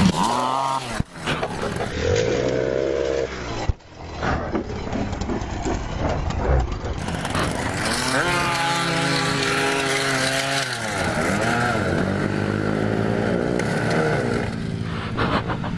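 Motorcycle engines running on a race track, their pitch rising and falling as they rev and pass, broken by abrupt cuts about one and four seconds in.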